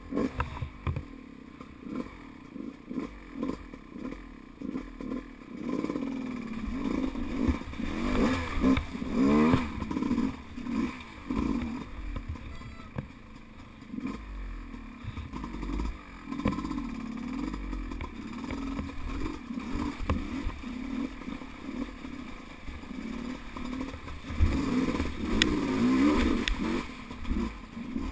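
Enduro dirt bike engine revving in repeated bursts, its pitch rising and falling as it is ridden over rough off-road ground, with occasional knocks and clatter. The strongest revving comes about a third of the way in and again near the end.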